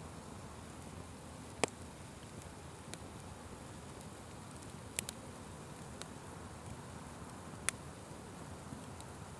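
Wood fire crackling over a steady low rush, with a few sharp pops, the loudest about a second and a half in, around five seconds and near the end.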